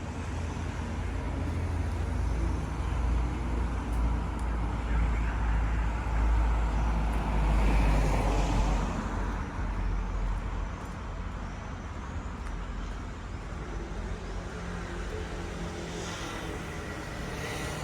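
City street traffic with a heavy low rumble as a motor vehicle passes close, building to its loudest about eight seconds in and then fading to a steadier background of traffic.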